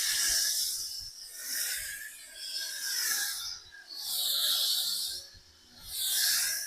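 Foam sprayer hissing as pre-rinse foam is sprayed onto a truck, the hiss swelling and fading about every second and a half.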